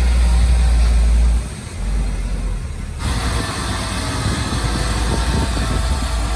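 Heavy diesel earth-moving machinery running steadily, with a deep engine rumble. It dips briefly about a second and a half in, then changes abruptly about halfway through.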